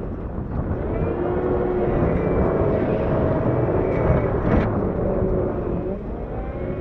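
Diesel engine of a CAT 908 compact wheel loader running steadily, with a whine that wavers slightly in pitch, and one sharp knock about four and a half seconds in.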